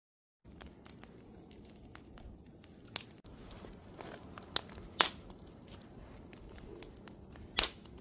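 Wood campfire crackling: a low steady hiss of burning with scattered snaps and a few sharp pops, the loudest near the end. It starts after a brief moment of dead silence.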